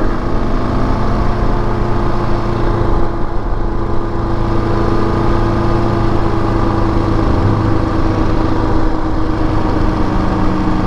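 KTM 690 Enduro R's single-cylinder engine running at a steady speed while riding, its pitch shifting slightly about seven and a half seconds in.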